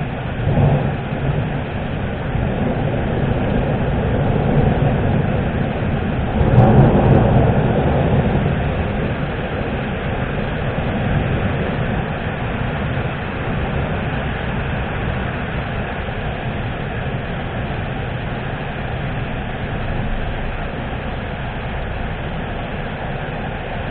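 Thunderstorm with steady rain. A short rumble of thunder comes near the start, and a louder rumble about six and a half seconds in dies away slowly over several seconds.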